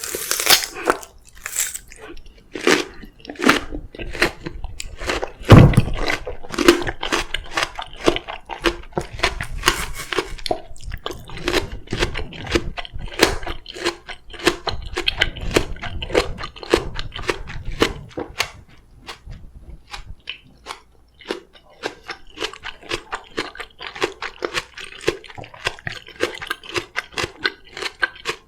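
Close-miked chewing of crisp Korean oriental melon (chamoe): a rapid series of wet crunches, about two a second, with one especially loud bite about five and a half seconds in.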